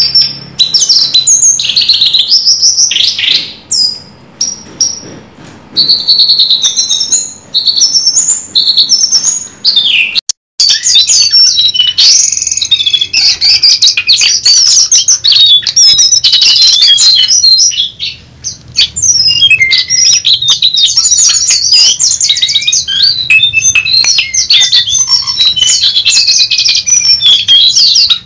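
Jongkangan (cingcoang coklat) songbird singing loudly and continuously: a rapid, varied stream of high chirps, trills and whistles, with a brief break about ten seconds in.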